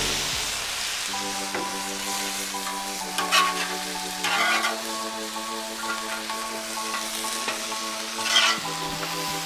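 Stir-fry vegetables and eggs sizzling on a Blackstone flat-top griddle, stirred and scraped across the hot steel a few times. Soft background music with held chords plays underneath.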